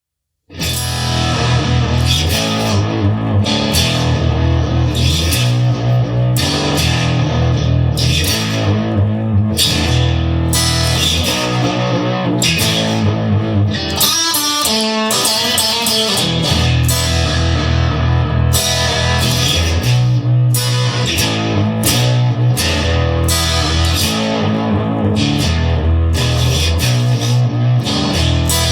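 Instrumental rock music with electric guitar over a repeating bass line, starting about half a second in; the bass drops out briefly about halfway through.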